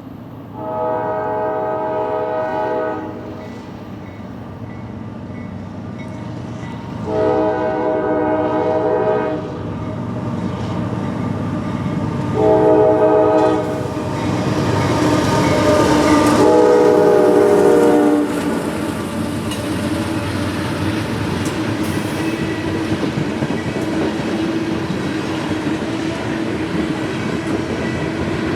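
Freight locomotive's multi-chime air horn sounding the long, long, short, long grade-crossing signal, then the train rolling past with a steady rumble and clickety-clack of wheels over rail joints.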